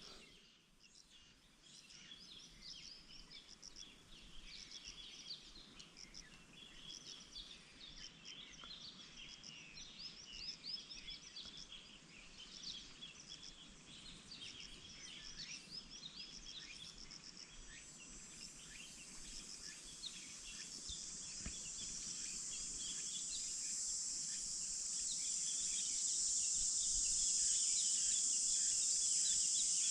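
Outdoor ambience of many small birds chirping in short, quick calls. About eighteen seconds in, a steady high-pitched insect buzz fades in and grows louder, coming to dominate the sound.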